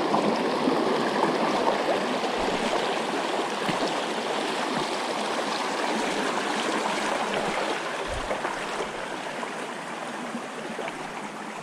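Rocky jungle stream rushing and gurgling over stones, a steady wash of water that slowly grows fainter toward the end, with a soft low thump about eight seconds in.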